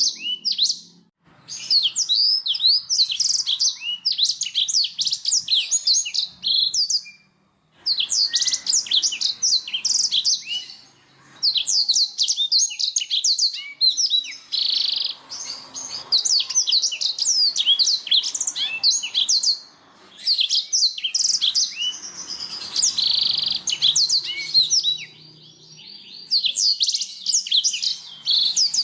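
Canary singing: long phrases of rapid trills and chirps, broken by short pauses every few seconds.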